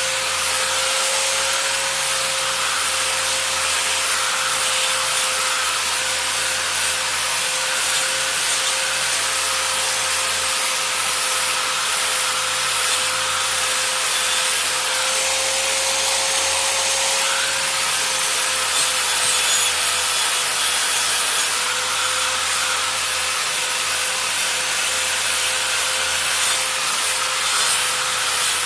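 Steady abrasive grinding noise with a constant whine, unbroken, with no back-and-forth stroke rhythm.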